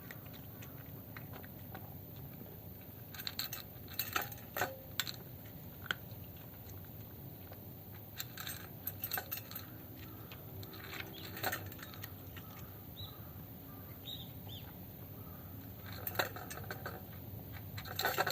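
A cat eating greedily from a dish: clusters of sharp clicks and clinks as the food is knocked against the dish and spills, coming in bursts a few seconds apart.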